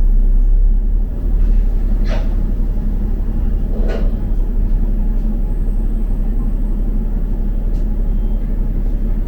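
Double-decker bus running, heard from inside: a steady low engine rumble, with two brief sharper noises about two and four seconds in.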